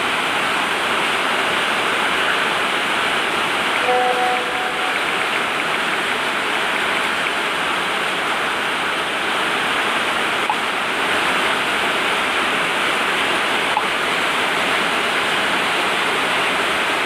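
Steady, even hiss-like noise, like rushing air, with a short beep about four seconds in and two faint clicks later.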